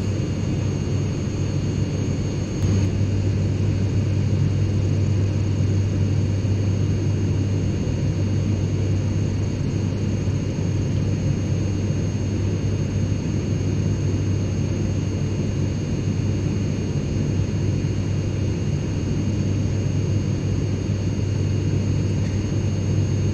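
Steady airplane cabin noise: an unchanging low drone of engines and airflow with a few faint, thin high whines above it, and a slight click about three seconds in.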